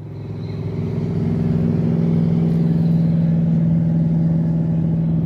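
A small boat's motor running at a steady pace, a constant engine hum that rises in level over about the first second and a half.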